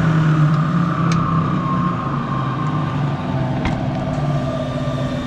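Prodex Model 2JSS high intensity mixer winding down after being switched off from top speed, its whine slowly falling in pitch. A couple of faint clicks are heard, about a second in and near the middle.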